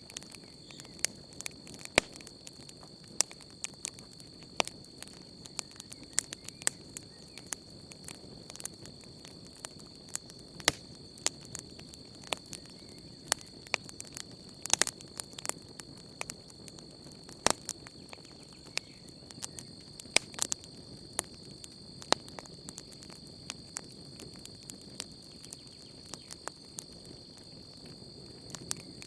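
Wood campfire crackling, with irregular sharp pops and snaps, several a second, over a low hiss of burning. A steady high insect trill, like crickets, runs behind it.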